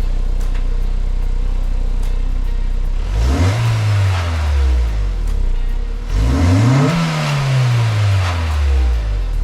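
Honda S2000's four-cylinder engine on its stock exhaust, idling steadily, then revved twice. The revs come about three and six seconds in, each climbing and then falling back to idle.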